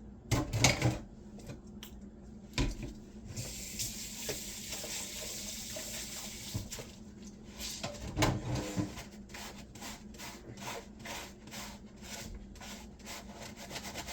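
Metal cheese grater being washed at a kitchen sink: a few clanks of the grater, the tap running for a few seconds, then quick repeated scrubbing strokes of a Scrub Daddy sponge over the grater.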